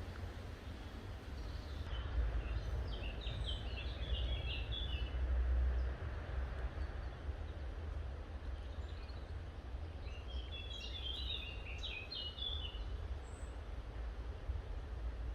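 Songbirds singing in two bursts of quick, high chirping phrases several seconds apart, over a steady low rumble.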